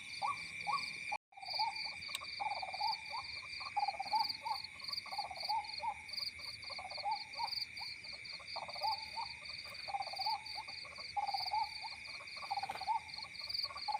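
Night chorus of frogs and insects: a steady high insect trill with a fast pulsing tone above it, and frogs calling in repeated bursts of short chirps. The sound cuts out briefly about a second in.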